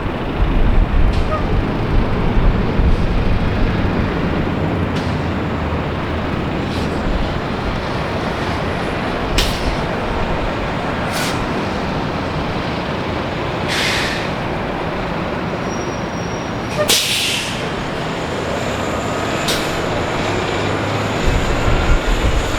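Steady rumble of heavy vehicle traffic with a string of short, sharp hisses every two seconds or so, the loudest about seventeen seconds in.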